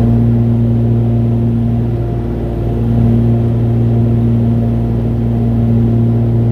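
Steady low drone of the Cessna 414A's twin piston engines in the climb, heard from the cabin through an open headset microphone.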